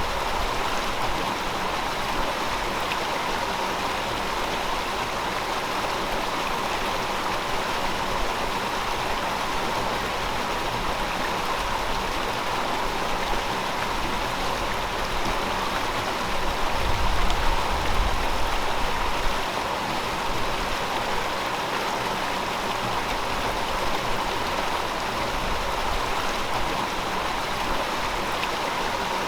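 River water flowing steadily, an even rushing sound, with a low rumble swelling for a few seconds a little past the middle.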